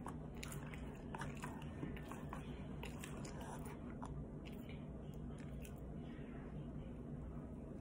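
Close-up chewing and biting of food, with soft wet clicks and small crunches, thickest in the first four seconds, over a steady low hum.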